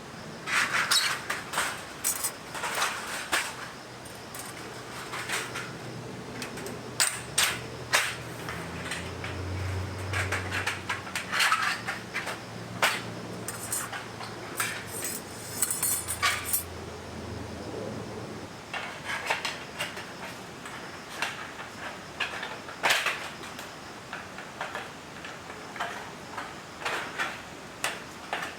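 Irregular clinks, knocks and clatter of things being handled, with a low hum for about ten seconds in the middle.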